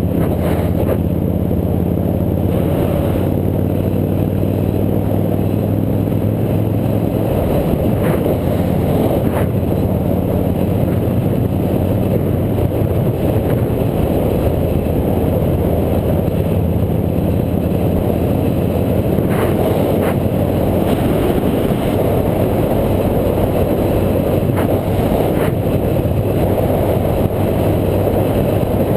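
Motorcycle engine running steadily under way, its low hum strongest in the first half, under heavy wind rush on the camera microphone.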